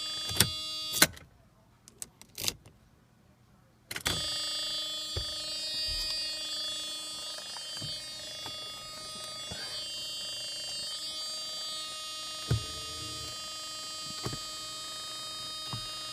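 Steady electrical whine with several tones from a Mercedes R129 with the ignition on and the engine not starting, broken by sharp clicks. The whine cuts out after a loud click about a second in, leaving near silence for about three seconds, then comes back with another click.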